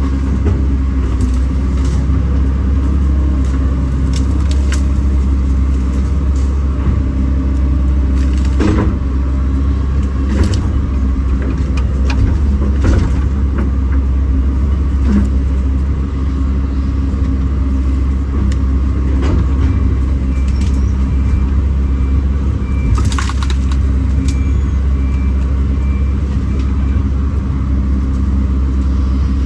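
Kobelco SK210 excavator's diesel engine running steadily under working load, with a few scattered sharp knocks and cracks, the loudest a little before the last quarter.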